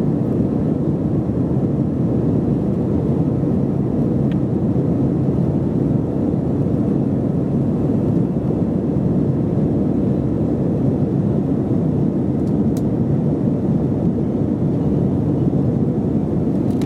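Steady cabin noise inside an Airbus A321-211 in flight: the hum of its CFM56 turbofan engines and the rush of air past the fuselage, even and unchanging.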